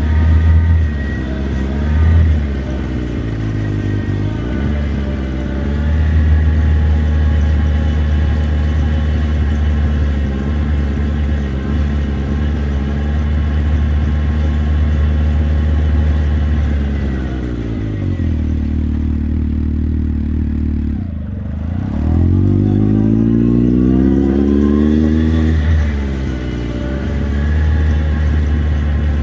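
Motorcycle engine running at a steady cruise, then easing off with its pitch falling about two-thirds of the way through, and accelerating again with a rising pitch before settling back to a steady pull.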